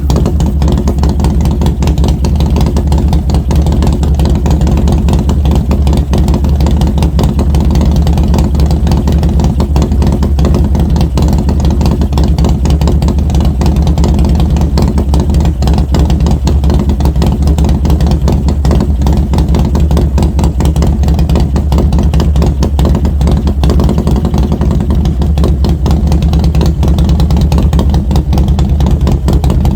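Harley-Davidson Milwaukee-Eight V-twin running steadily through Mutazu 2.0 megaphone slip-on mufflers, the engine fitted with an SS 475 camshaft.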